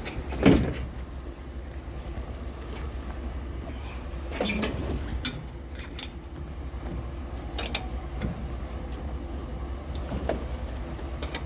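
A vehicle engine idling steadily, with a few scattered knocks and clatters of items being handled.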